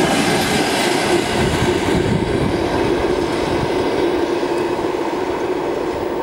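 Passenger train rolling steadily past, with continuous wheel-on-rail noise and a steady low hum.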